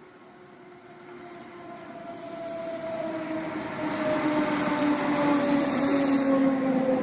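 CityRail electric intercity train pulling into a station, growing steadily louder over the first few seconds. Its motor whine sits in two tones that slowly fall in pitch as it slows, with a hiss from the running gear about midway.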